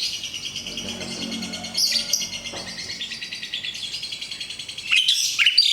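Caged songbirds chirping and trilling without pause, with louder calls about two seconds in and again near the end.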